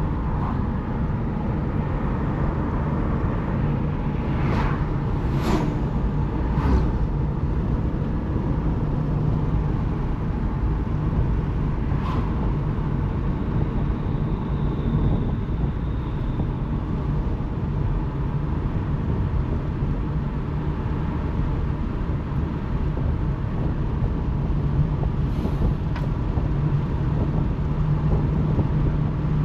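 Car driving along: a steady engine drone and road noise, with a few brief knocks.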